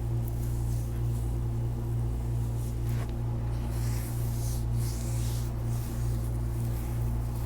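Hands rubbing and pressing on the arch and heel of a bare foot, soft swishing strokes that come and go, over a steady low electrical hum that is the loudest thing heard.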